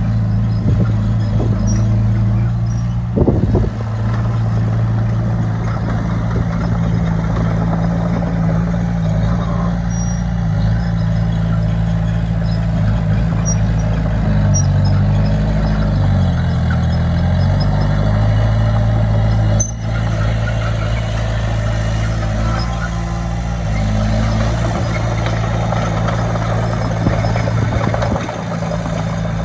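Bulldozer's diesel engine running steadily, its pitch dipping and coming back up about halfway through. A brief clank about three seconds in.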